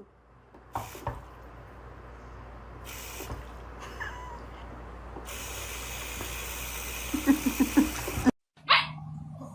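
A dog vocalising: a quick run of about five short, low sounds near the end, then a single louder bark, over a steady background hum.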